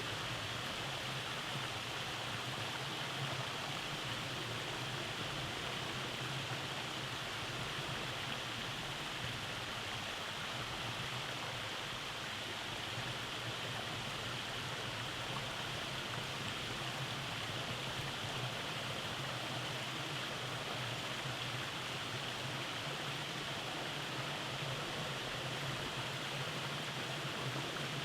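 Rainforest stream running over rocky cascades: a steady, even rush of water.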